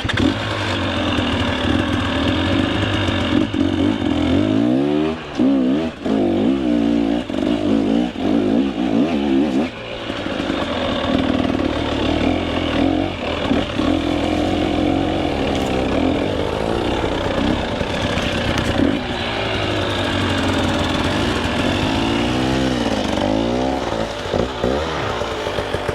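Two-stroke dirt bike engine, a KTM 300 EXC, revving up and down over and over under varying throttle. The revs drop off sharply a few times in the first ten seconds.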